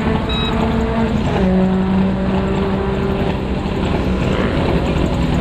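Rally car engine running at high, steady revs, with a small drop in pitch about a second and a half in.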